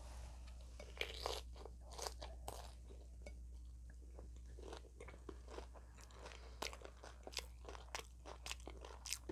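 Close chewing and crunching of a crisp taco shell: a string of small, sharp crunches, irregular and several a second at times.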